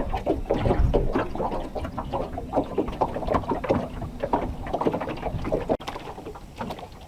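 Irregular splashing and knocking of water and gear beside a small fishing boat as a hooked fish is brought in. A low rumble fades out about a second in.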